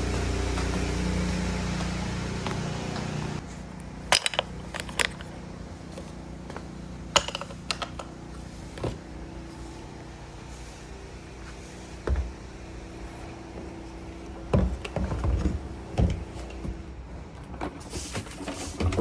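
A vacuum cleaner running steadily, then cut off abruptly about three seconds in. It is followed by a quieter steady background hum with scattered sharp clicks and knocks from handling equipment.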